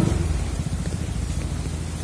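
Steady rain noise over the low rumble of a vehicle engine. The engine drops in level right at the start, leaving the rain and a faint low throb.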